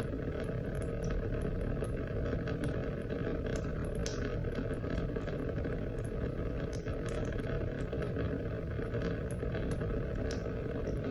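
Steady rain, a continuous rushing with a heavy low rumble, dotted with many small, irregular drop ticks.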